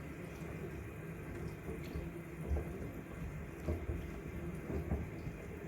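Miele WCR 870 washing machine washing a load of wet bath towels: the drum tumbling with water sloshing and irregular soft thumps.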